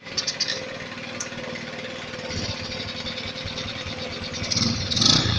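Small motorcycle engine running, the Yamaha Vega R's 110 cc four-stroke single, a steady rapid chugging that grows louder near the end.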